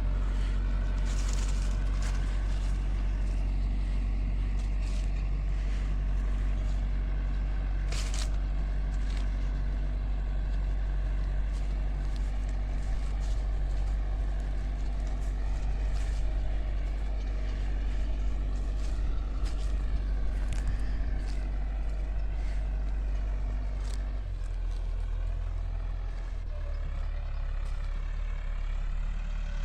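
Massey Ferguson 385 tractor's diesel engine running steadily under load while pulling a disc harrow. Its note changes about three-quarters of the way through, and there is a single sharp knock about eight seconds in.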